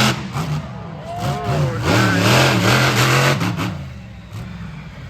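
Monster truck engine revving hard, its pitch rising and falling, loudest about halfway through and easing off near the end.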